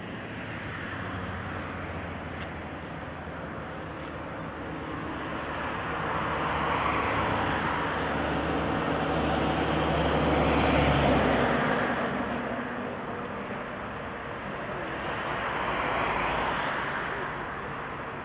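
Engine and road noise of heavy vehicles passing by, swelling and fading twice: loudest about ten seconds in and again near the end.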